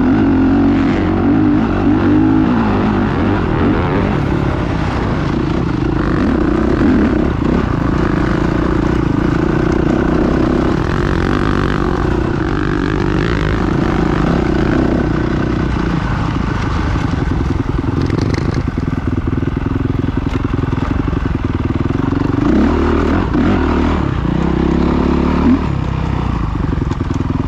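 Off-road motocross bike engine running hard, its revs rising and falling again and again as it climbs a rough trail.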